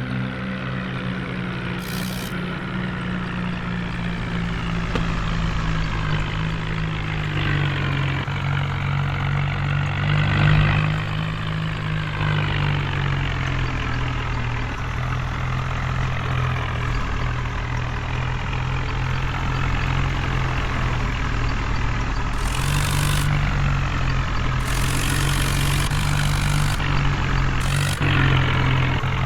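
Heavy diesel engines running steadily, the tractors working to pull a truck out of mud; the engine note rises briefly about ten seconds in. A few short bursts of hiss come in the last third.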